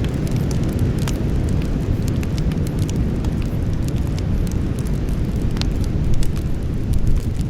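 Wood campfire burning: a steady low rumble with frequent sharp crackles and pops, several a second, a few louder than the rest.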